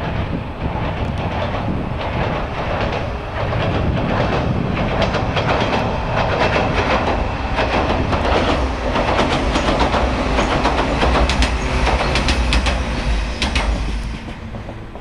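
Two-car JR 115 series electric train running over a steel railway bridge: a steady rumble of wheels on the bridge, with a rhythmic clickety-clack of wheels over rail joints. It grows louder and deeper through the second half and drops away near the end.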